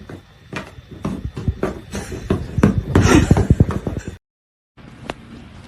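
A rapid, irregular clatter of knocks and taps that grows busiest about three seconds in and then cuts off abruptly, followed by a single faint tick.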